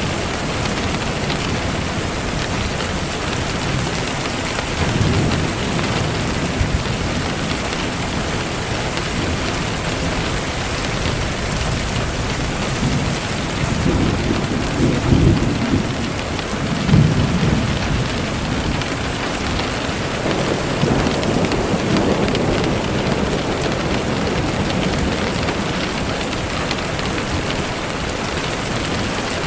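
Steady rain falling, with low rumbles of thunder swelling up several times, loudest about halfway through.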